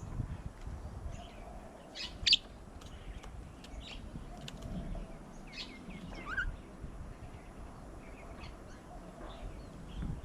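Wild birds calling with short, scattered chirps, one louder call about two seconds in, over a low background rumble.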